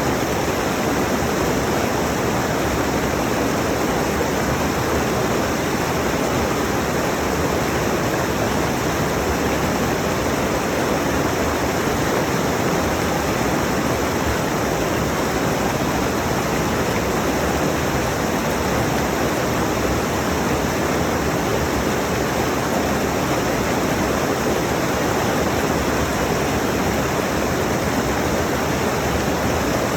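Rushing mountain stream: steady, unbroken rush of water.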